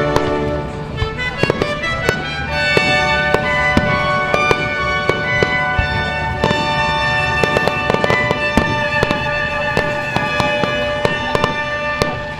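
Fireworks going off at a display: a run of sharp bangs and crackles, thickest in the middle of the stretch, over music with sustained notes.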